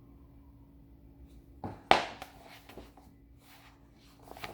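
A brief sharp tap about two seconds in, just after a softer one, from handling the book, over a faint steady hum. A few lighter clicks come near the end.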